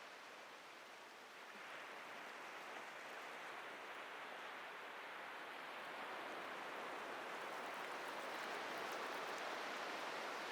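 Ocean surf on a beach: waves washing in as a steady rush that swells about a second and a half in and grows louder toward the end.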